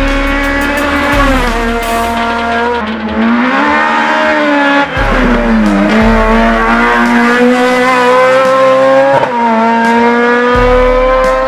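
A tuned, naturally aspirated 1.6-litre four-cylinder engine in a Honda Civic EG race car, revving hard. Its pitch climbs, falls back and climbs again through the gears, with a sharp break at a gear change about nine seconds in.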